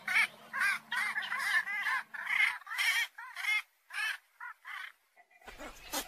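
Wetland birds calling: a rapid run of short, repeated calls, several a second, which breaks off for about a second near the end and then starts again.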